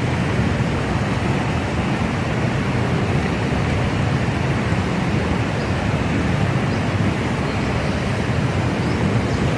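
River rapids rushing, a steady, even roar of water with no break.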